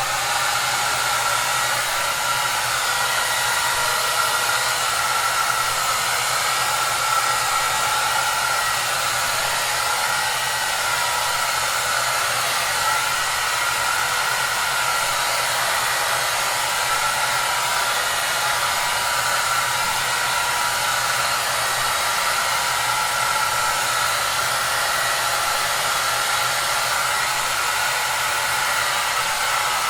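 Hair dryer running steadily: an even rush of blown air with a faint steady whine and low hum.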